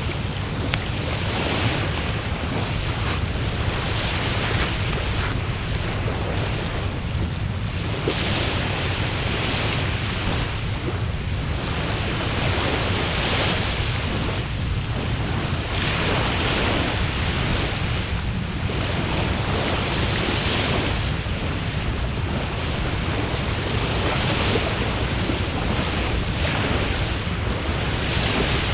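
Wood fire burning with a steady rushing of flames and scattered small crackles and pops, over a low rumble. A steady high thin tone runs alongside.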